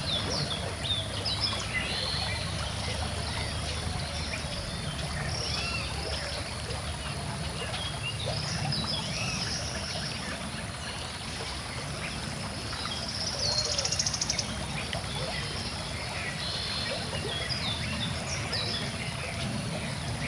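Gently flowing river water running steadily, with many birds chirping and calling over it. A rapid trill about two-thirds of the way through is the loudest call.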